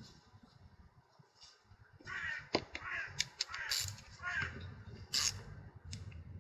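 Several harsh bird caws, about four in two and a half seconds, with a few sharp clicks of parts being handled.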